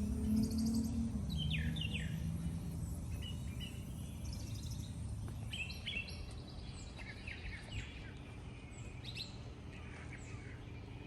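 2002 Carrier TECH 2000 Silencer System central air conditioner's outdoor unit shutting down: its low hum drops in pitch about a second in and fades away as it winds down. Birds chirp throughout.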